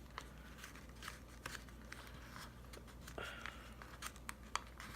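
Faint scattered clicks and a soft rustle of paper sticker sheets being handled, as planner stickers are peeled and pressed onto the page.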